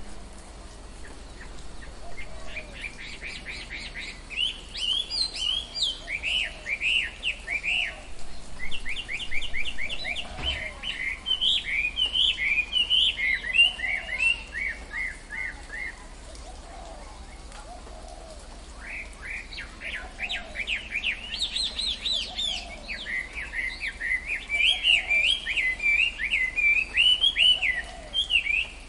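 Tropical forest birdsong: rapid runs of high chirps and trills, in two long busy bouts with a short lull between them, over a faint low call repeating every second or so.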